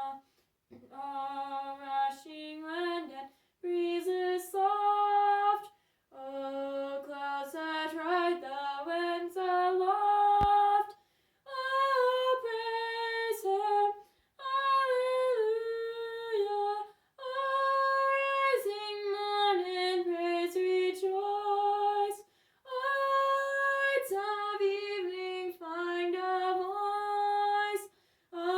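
A woman singing unaccompanied, a melody in phrases of held notes stepping up and down, with short pauses for breath between phrases.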